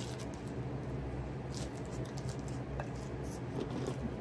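Chewing and mouth sounds of people eating chicken-crust Caesar salad pizza: soft, irregular clicks over a steady low hum.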